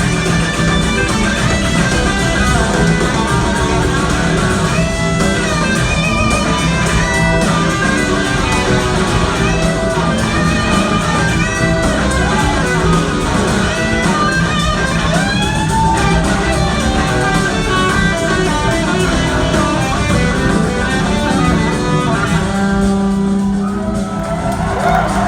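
Live rock band music: an electric guitar plays a lead line of bending, sliding notes over bass and the rest of the band. The band thins out near the end.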